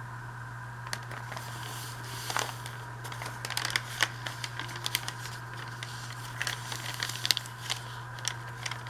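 Paper being handled at close range: scattered crinkling, rustling and small clicks that start about a second in and grow busier, over a steady low electrical hum.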